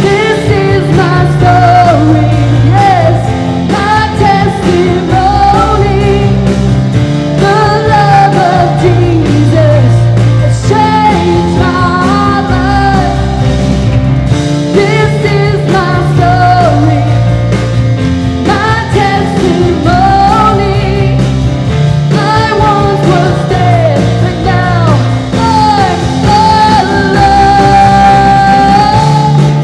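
Live worship band playing a rock-style praise song: a lead singer's melody over a full band with a steady, pulsing bass line.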